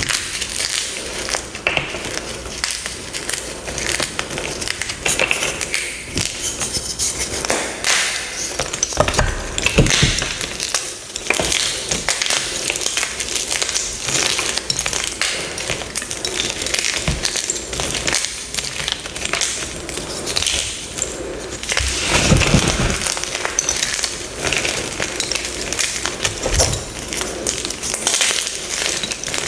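Gym chalk blocks being crushed: a continuous crisp crunching and crumbling, with heavier crunches about ten seconds in and again about twenty-two seconds in.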